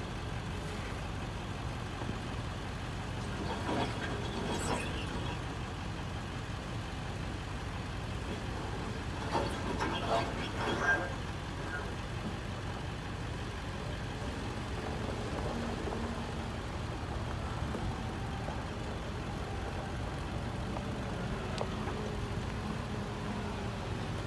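A vehicle engine running steadily at idle, with a few short knocks or clanks about four seconds in and again around ten seconds in.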